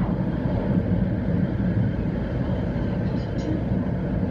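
700-series Shinkansen train running, heard from inside the passenger car: a steady low rumble of wheels on the track.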